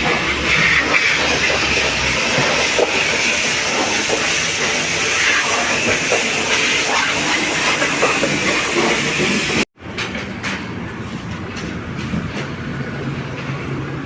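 Steady road and wind noise of a moving car, a loud hiss with a low rumble beneath. It cuts off abruptly about ten seconds in and returns as a quieter running noise.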